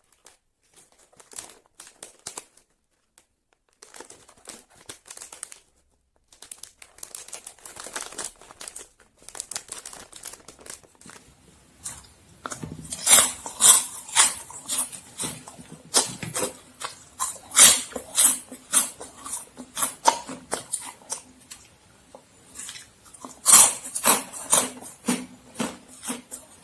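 Plastic snack packet crinkling and rustling, then from about halfway through, loud crisp crunching and chewing of Momogi puffed corn sticks, a sharp crunch about once or twice a second.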